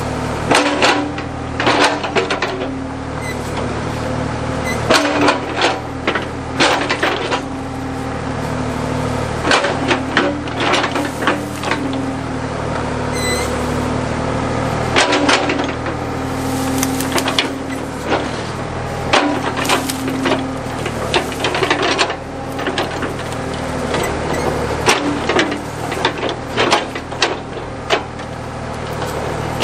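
Backhoe engine running steadily, rising and falling with load, with repeated sharp clanks and knocks and some cracking of wood as the bucket works at a tree stump.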